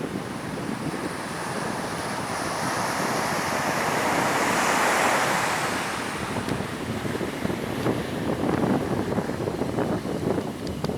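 A jet airliner passing low, its engine noise swelling to a peak about halfway through and then fading, with a high whine that slowly drops in pitch. Wind buffets the microphone and surf breaks underneath.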